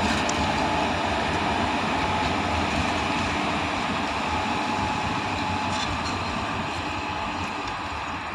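Passenger express hauled by a WAP-4 electric locomotive rolling past, a steady rumble of wheels on rails that slowly fades as the train draws away.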